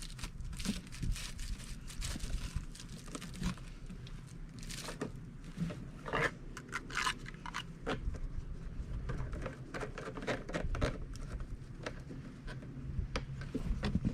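Irregular crunching and crackling of packed snow, with a low steady hum underneath.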